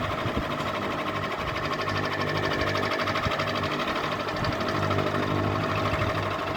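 Ceiling fan running with a steady mechanical hum.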